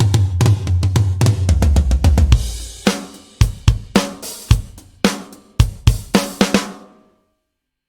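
Sampled acoustic drum kit from Toontrack EZdrummer 3 playing a pattern of kick, snare, hi-hat and cymbals. A dense passage with low ringing drums comes first, then a cymbal wash about two and a half seconds in, then evenly spaced hits that stop about seven seconds in.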